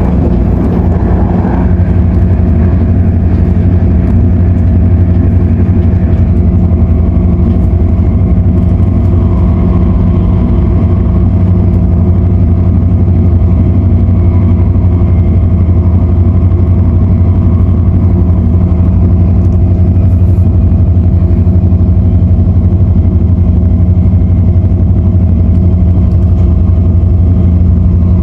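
Inside an MTR Airport Express CAF train running at speed: a loud, steady rumble with a constant hum that holds unchanged.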